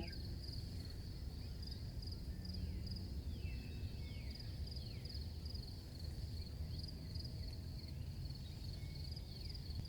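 Faint cricket chirping, a steady high pulsing trill, over a low rumbling background noise, with a few faint falling whistles a few seconds in.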